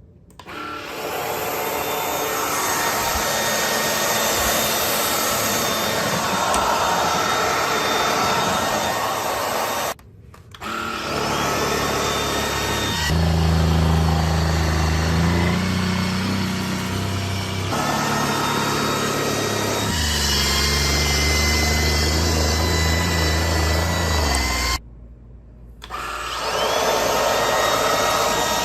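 Lubluelu 202 cordless stick vacuum with a brushless motor running: a steady motor whine and rush of air. It cuts out briefly twice and comes straight back, and a deeper hum joins in for a stretch partway through.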